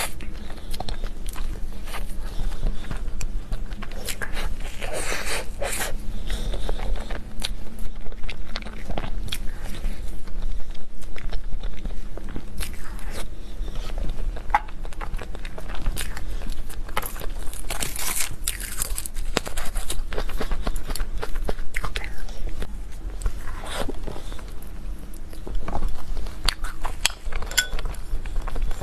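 Close-miked eating sounds: a person biting into and chewing cake and desserts, with irregular crunches and mouth clicks throughout.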